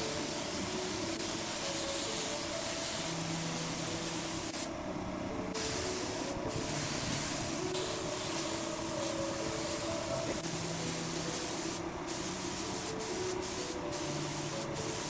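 Steady hissing noise that cuts out briefly several times, with background music playing a stepping melody underneath.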